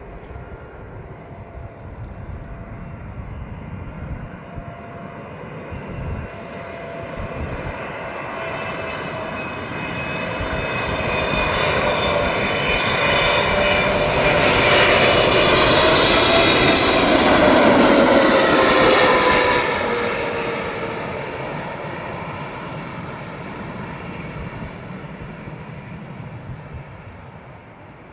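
Aircraft engines passing close by: the noise builds steadily, is loudest about two-thirds of the way through, then fades away. As the aircraft goes past, its whining engine tones drop in pitch.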